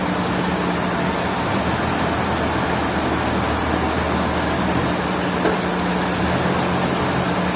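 Sawmill machinery's engine running steadily: a low, even hum that does not change speed.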